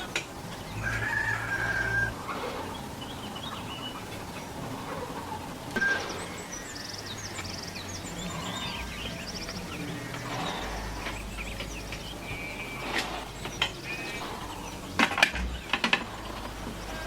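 Chickens clucking, with small birds chirping and a few sharp knocks.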